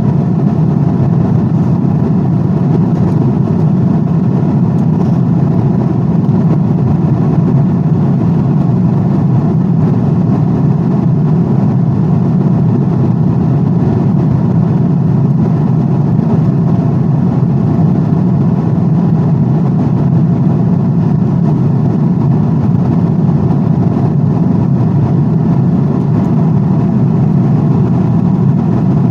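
Airplane noise: a steady, unchanging low rushing drone with no breaks.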